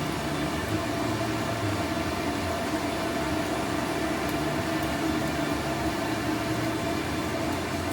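A steady machine drone: an even rush of noise with a constant low hum and a fainter mid-pitched tone.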